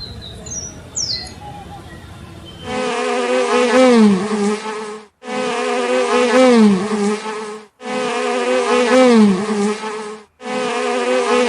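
An insect's buzz, a steady hum that dips in pitch near the end, played four times in a row with short gaps between. Before it, a few faint bird chirps over quiet background.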